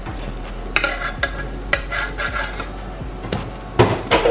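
Besan-batter bread slices sizzling on a grill pan, with a metal spatula scraping and tapping against the pan several times. A louder clatter of the spatula comes near the end.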